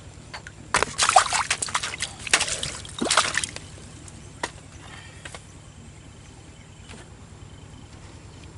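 Water splashing and sloshing in a cluster of bursts for about three seconds, followed by a couple of faint knocks.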